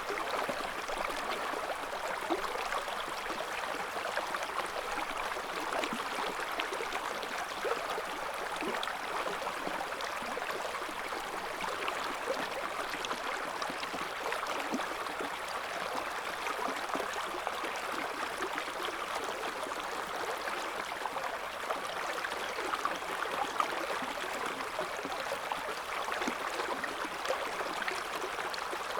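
A shallow river flowing steadily, water babbling and gurgling over stones, with many small splashes.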